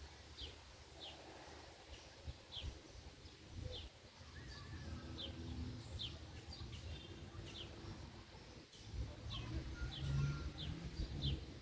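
Faint bird chirps: short, quick descending notes repeated irregularly every half second to a second, over a low background rumble.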